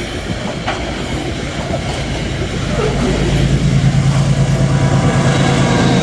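Metre-gauge freight train passing, with rumbling wheels and clatter on the rails; about halfway through a steady low diesel hum grows louder.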